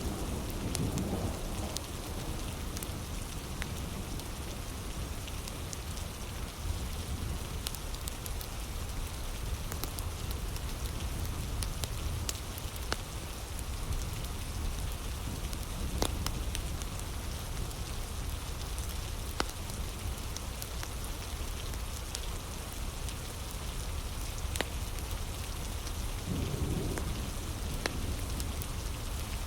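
Heavy rain falling steadily, with scattered sharp clicks through it. A low rumble of thunder fades at the start, and another swells briefly near the end.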